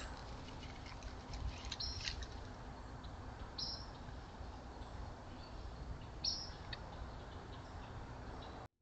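Faint outdoor ambience through a trail camera's microphone: a steady low hiss and rumble, with a few short high bird chirps about two, three and a half, and six seconds in.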